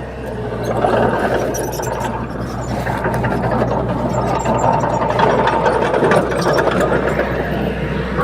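Komatsu D21P crawler bulldozer's diesel engine running steadily while working, with scattered faint clicks over the engine noise.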